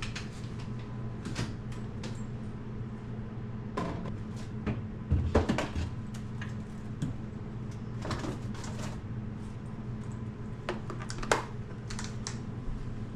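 Frozen food packages and plastic storage bins being handled and set down: scattered clicks, knocks and crinkles, loudest about five seconds in and again near eleven seconds, over a steady low hum.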